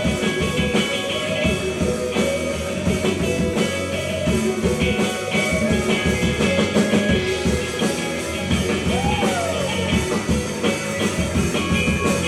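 Rock band playing a song live: a guitar-led instrumental stretch with no sung words.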